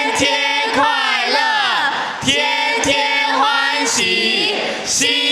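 A group of voices singing together in unison, phrase after phrase, with some notes held briefly.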